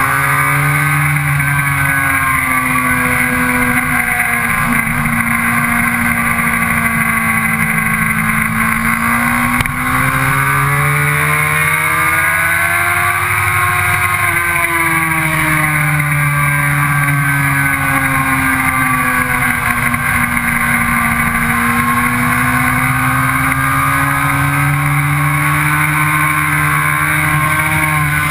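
Sport motorcycle engine running hard on a race track, heard from an onboard camera: its pitch climbs and falls slowly as the throttle is worked through the corners, over a steady rush of wind. A short dip in loudness comes about ten seconds in.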